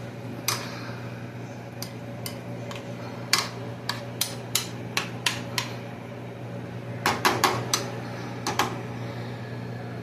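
A cooking utensil clinking and tapping against a pot of cooking ground beef: irregular sharp clicks, with a quick run of several taps about seven seconds in. A steady low hum runs underneath.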